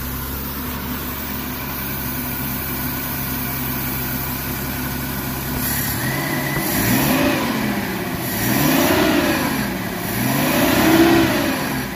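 Maruti Suzuki Omni's three-cylinder petrol engine idling evenly, then revved three times from about halfway in, each rev rising and falling back to idle. It runs smoothly without misfiring now that its throttle body has been cleaned.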